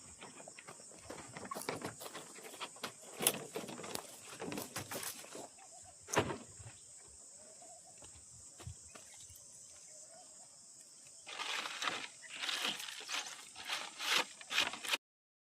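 Steady high-pitched insect chorus, with scattered sharp clicks and rustling that grow busier near the end; the sound cuts off suddenly just before the end.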